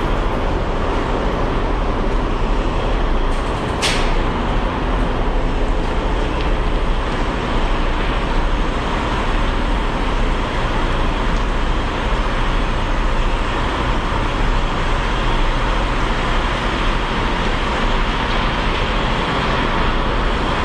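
Semi truck's diesel engine running steadily, heard from inside the cab with a constant rumble and hiss, and one brief tick about four seconds in.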